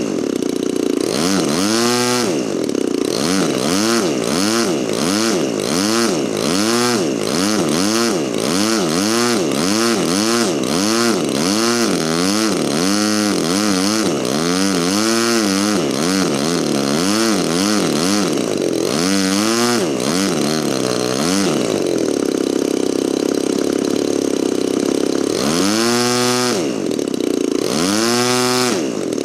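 DLE 35RA single-cylinder two-stroke gasoline model-aircraft engine running, its throttle blipped up and down about once a second so the pitch rises and falls repeatedly. About three quarters of the way through it settles to a steady idle, then is revved up twice more near the end. A good-running engine on its first startup.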